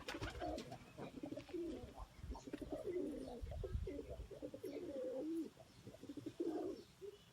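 Domestic white pigeons cooing, several birds calling over one another without a break.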